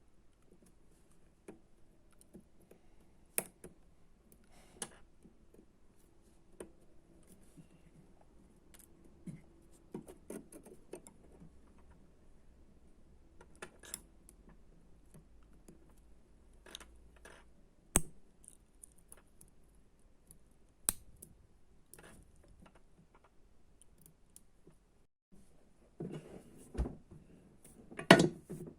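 Scattered light clicks and small metallic taps of hand tools and electronic parts being handled while a kit circuit board is assembled, with a louder cluster of clicks near the end.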